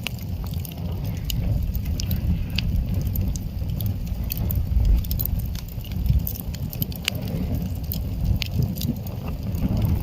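Wood campfire crackling: scattered sharp snaps and pops of burning firewood over a steady low rumble.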